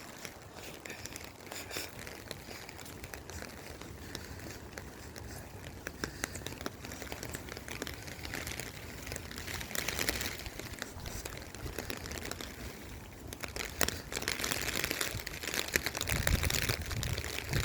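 Close crinkly rustling and crackling at the microphone, with many small clicks. Wind buffets the microphone in deep, rumbling gusts near the end.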